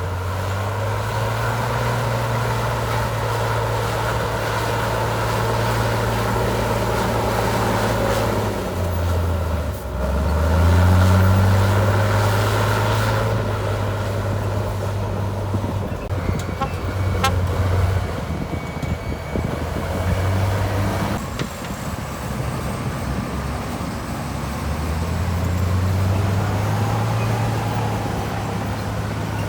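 Heavy diesel engine of earthmoving machinery running under changing load, revving up about a third of the way in and easing off and picking up again several times. A few short clicks are heard about halfway.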